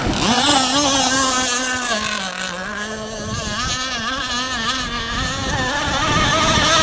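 Motor of an Aeromarine Conquest Cat radio-controlled racing catamaran running at speed. Its whine wavers, sags in pitch a couple of seconds in, then climbs again and grows louder near the end.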